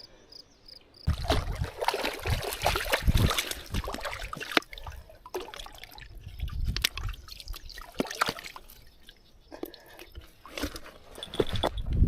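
Water splashing and sloshing, with irregular clicks and rustles of handling, as a hooked catfish is brought in and held.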